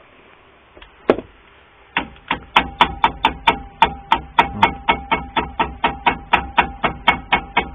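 Car brake caliper clanking as it is struck repeatedly by hand: one knock about a second in, then a fast, even run of knocks, about four a second, with a metallic ring. The clatter comes from caliper guides worn with age, which let the caliper knock about.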